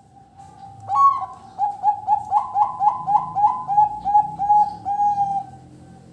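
Zebra dove (perkutut) cooing: a quick series of about a dozen short, rolling coo notes at about three a second, the last few drawn out longer before it stops.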